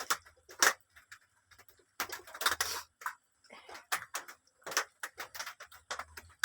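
Irregular short clicks and taps, several a second, with a faint low hum at times.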